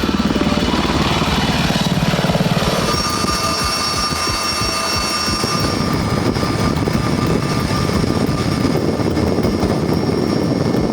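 Boeing CH-47 Chinook tandem-rotor helicopter running: a rapid rotor chop, with a steady high turbine whine that sets in about three seconds in.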